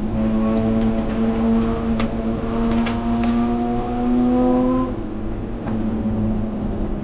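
Mazda RX-8 race car's two-rotor rotary engine running hard at high revs. Its pitch climbs slowly for a couple of seconds, then drops out briefly about five seconds in before picking up again. A few sharp clicks are heard around the middle.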